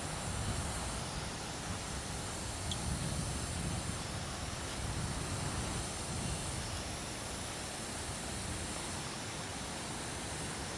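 Steady rushing roar of a waterfall, with a deep rumble and a hiss of spray above it.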